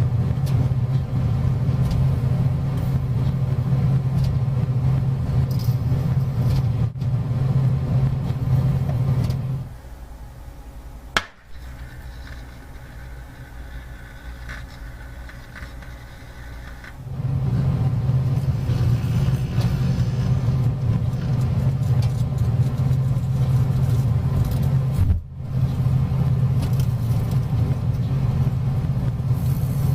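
Microwave oven running with a laser appliance inside, a loud steady hum. The hum drops away about ten seconds in, leaving a much quieter sound with a single sharp click, and comes back about seven seconds later.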